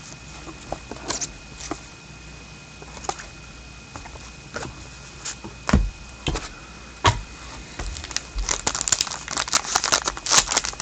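Hockey trading cards and their pack being handled: scattered light clicks and taps, then about three seconds of dense crinkling near the end, as of a pack wrapper being torn open.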